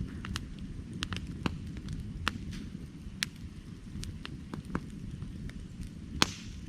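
Burning firewood crackling: a steady low rumble of the flames with irregular sharp pops and snaps, the loudest pop about six seconds in.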